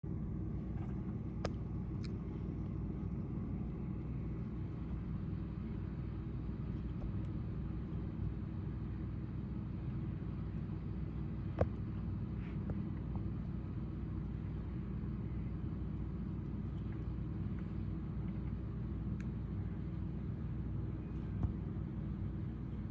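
Steady low rumble with a few faint, brief clicks scattered through it.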